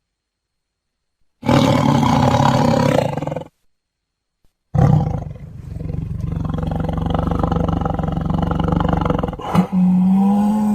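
Siberian (Amur) tiger roaring: one roar of about two seconds after a silent start, then after a short pause a longer roar of about five seconds, with a steadier held call beginning near the end.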